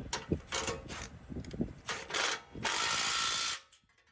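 Socket ratchet clicking and metal tools knocking while the bumper's mounting bolts are tightened against a nut held by a stubby wrench. Near the end comes a loud steady rushing noise of about a second that cuts off suddenly.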